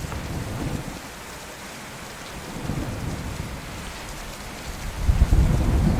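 Steady rain falling, with a low thunder rumble that swells and grows loud about five seconds in.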